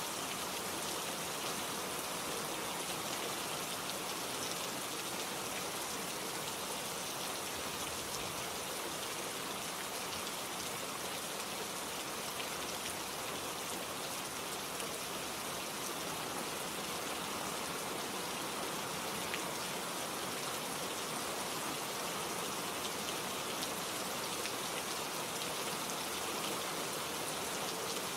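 Steady rain falling, with drops pattering on leaves and other surfaces.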